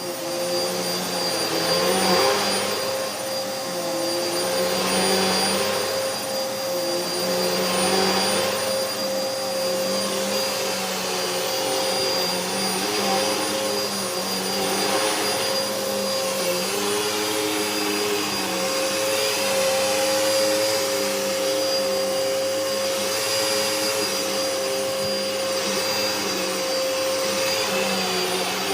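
Hoover vacuum cleaner running with its brushroll turning: a steady motor whine under a rush of air that swells and fades every two to three seconds. The uploader says the vacuum is clogged.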